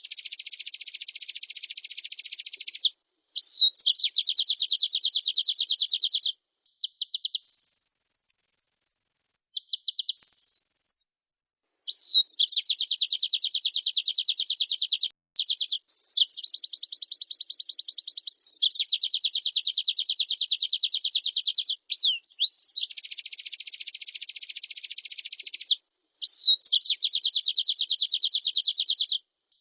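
White-eye (pleci) singing: a string of rapid buzzy trills of two to four seconds each, linked by short slurred notes, with two brief, much higher-pitched trills around eight to ten seconds in.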